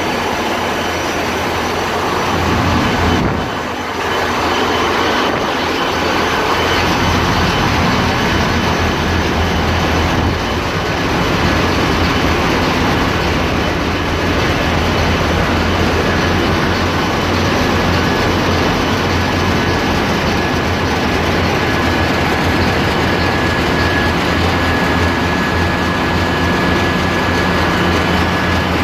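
Ship's engine room machinery running: a loud, steady drone with a low hum and a thin constant whine on top. The noise dips briefly about three seconds in.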